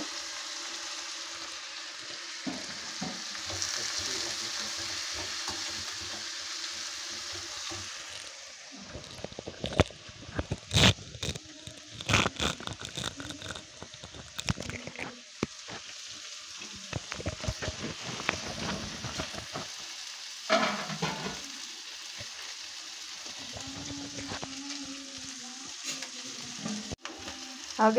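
Onions, tomatoes, chillies and whole spices sizzling steadily as they fry in a pan. From about nine seconds in, a metal slotted spatula scrapes and clatters against the pan as the mix is stirred.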